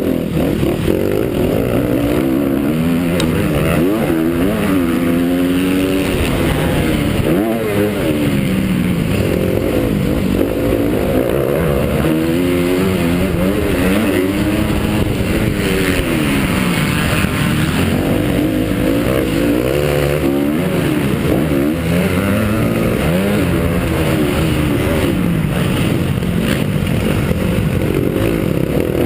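Honda CRF250 four-stroke motocross bike engine racing hard, its pitch rising and falling over and over as the throttle opens and closes and the gears change.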